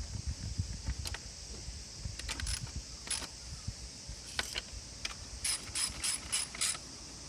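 Scattered sharp metallic clicks from hand tools, then a run of five evenly spaced clicks over about a second near the end.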